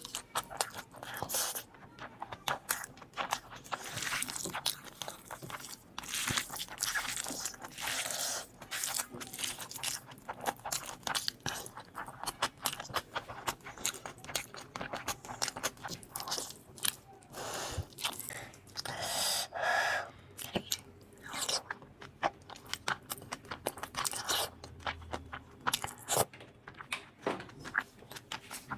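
Close-miked eating: a steady run of irregular crunches and chewing as crispy fried chicken is bitten and chewed.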